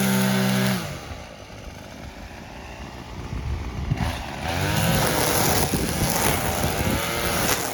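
Brush cutter engine running at high revs, dropping back to a low idle about a second in, then revved up again about four and a half seconds in, its pitch rising and falling as the line or blade takes load in the grass.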